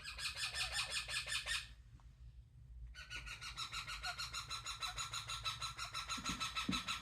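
A pet parrot calling in two runs of rapid, evenly repeated harsh notes, about eight a second. The first run is short; the second starts after a brief pause and is longer.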